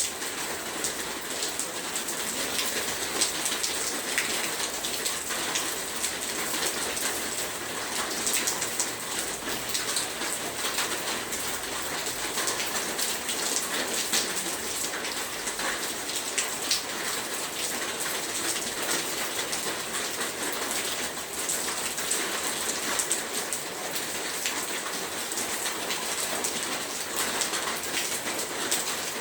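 Heavy rain falling steadily, with a dense patter of drops striking a surface.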